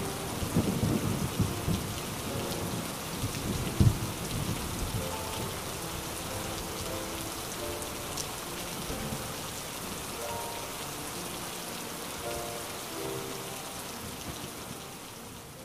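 Steady rain with low rolls of thunder in the first few seconds and a sharper clap about four seconds in. Soft music notes play quietly over the rain, and the whole fades down near the end.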